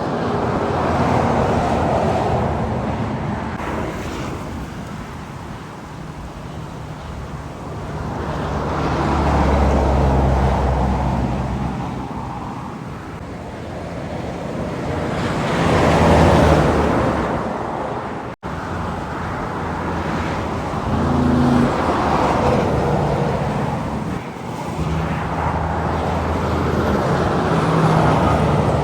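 Heavy trucks passing on a highway one after another, their diesel engines and tyre noise swelling up and fading away about every five or six seconds. The loudest pass-by comes a little past the middle, followed by a brief cut in the sound.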